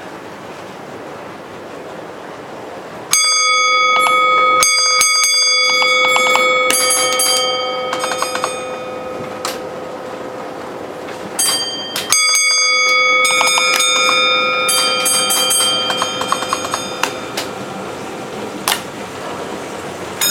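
A bell is struck in two runs of several strokes, each stroke ringing on with a clear, lingering tone, typical of a signal-box block bell sending bell codes. A steady rumble of running model trains lies underneath.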